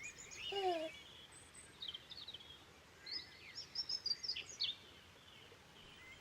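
Songbirds chirping and trilling in short high bursts, busiest in the middle of the stretch. A brief lower falling call comes near the start.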